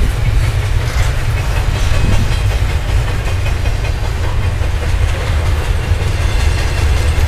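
Double-stack container well cars rolling past on steel rails: a steady low rumble of wheels on track, with a few clicks over rail joints in the first couple of seconds.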